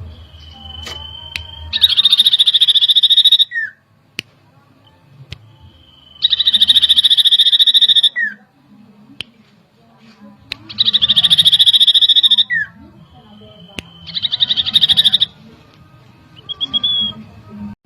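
Common iora (cipoh) singing four loud phrases, each a high steady whistle running into a rapid trill of about a second and a half that ends in a short falling note.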